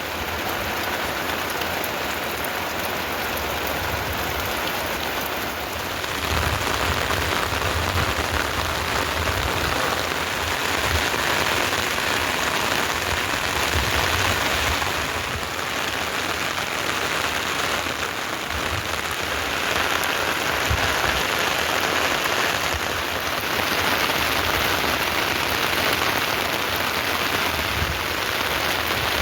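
Heavy rain falling steadily, with occasional low rumbles underneath.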